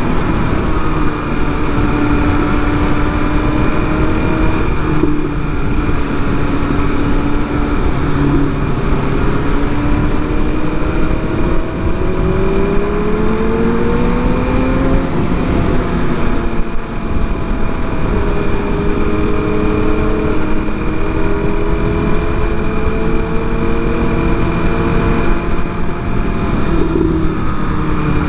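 Inline-four sport bike engine running under way, with wind rush. The engine note holds steady, climbs for several seconds past the middle, then drops back and settles again.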